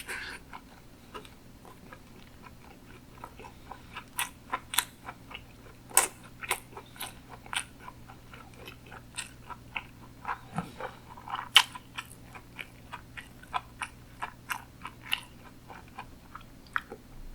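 Close-miked chewing of sushi: a steady run of wet mouth clicks and smacks, about two or three a second, with a louder bite or squish at the start.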